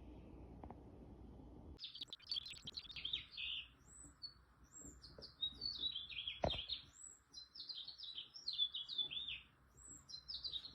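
Small songbirds chirping in quick runs of short, high notes and falling whistles, starting about two seconds in. A single sharp click sounds around the middle.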